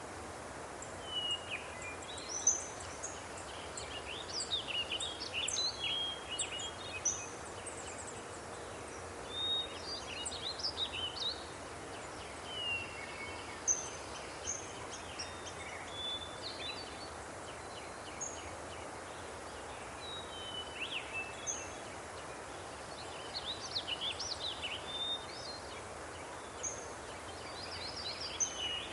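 Birds chirping and singing in many short, quick calls, scattered throughout, over a steady hiss of outdoor ambience.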